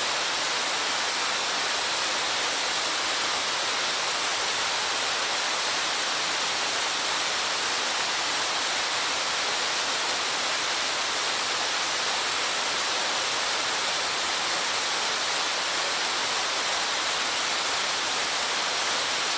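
Waterfall with a 27 m drop: a steady, even rush of falling water that does not change.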